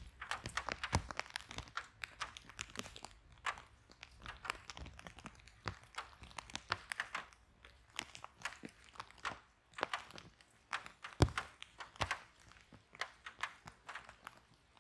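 Wood fire in a fireplace crackling, with irregular snaps and pops several times a second and a sharper pop about eleven seconds in.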